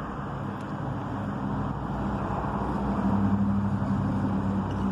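A motor vehicle going by: a low engine hum with a steady drone that swells about three seconds in and then eases a little.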